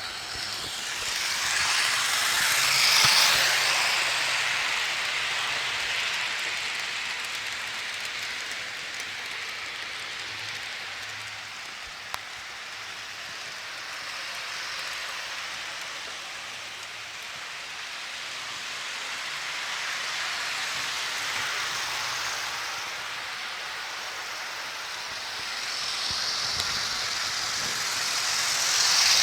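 HO scale model train running on the layout track: a steady rushing rattle of wheels and locomotive motors that grows louder about three seconds in and again near the end as the train passes close.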